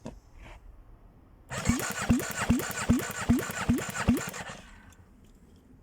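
Electric starter cranking an Aprilia Rotax V990 V-twin engine over for about three seconds, a regular chug of about three strokes a second with a rising whine on each, then stopping without the engine firing: cranking for a compression test.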